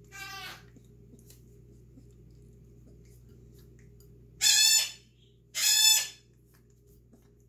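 Talking pet bird yelling: a short squawk at the start, then two loud, drawn-out squawks about a second apart near the end.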